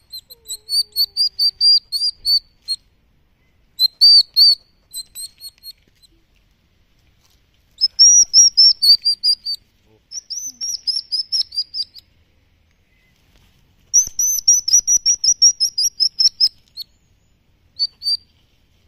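Baby hedgehogs' high, bird-like peeping: rapid runs of short chirps, several a second, in bouts of one to two seconds with short pauses. These are the young's distress calls for help.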